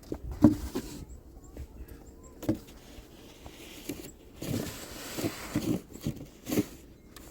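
Snow shovel working deep snow: separate scrapes and knocks, then a run of quicker scraping strokes in the second half.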